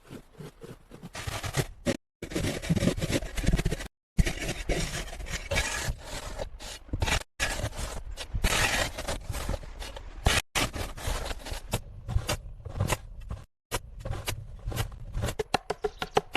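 Scraping and rubbing with many sharp clicks, broken into short stretches by several sudden silent cuts.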